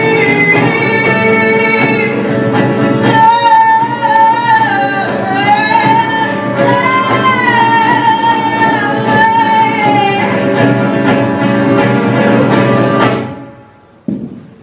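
Live music: a voice singing long held, wavering notes over plucked guitar strokes, the music dying away about a second before the end. A single knock follows just after.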